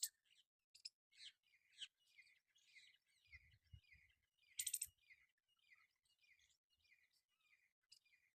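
Parrot calling faintly: a run of short, repeated chirps at about two a second, with a few sharper, louder calls near the start and about halfway through.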